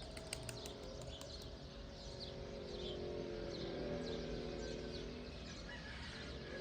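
Birds chirping, a short falling chirp repeated about twice a second, over a steady low drone. A quick run of clicks comes in the first second and a half.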